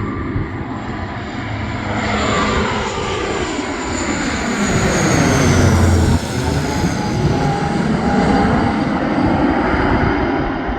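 Aircraft passing low overhead: its engine noise builds to a peak about halfway through and then eases, and a high whine falls in pitch as it goes by.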